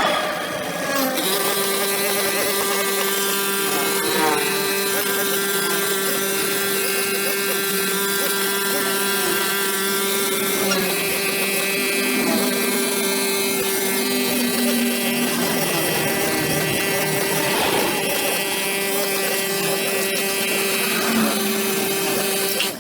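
Brush cutter's small engine running steadily as elephant grass is cut, a constant whine with many overtones.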